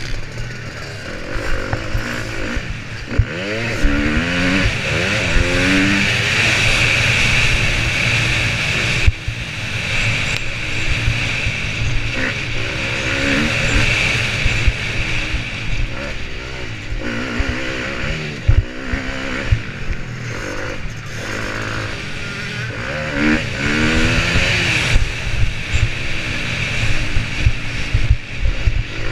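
Motocross bike engine racing, its pitch climbing and dropping again and again as the rider opens and shuts the throttle through the gears, under steady wind rush on the camera with occasional sharp knocks.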